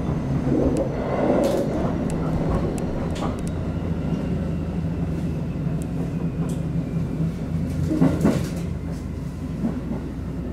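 Electric local train running and slowing as it pulls into a station, heard from inside the driver's cab: a steady low hum with scattered sharp clicks from the wheels and track. There is one louder knock about eight seconds in.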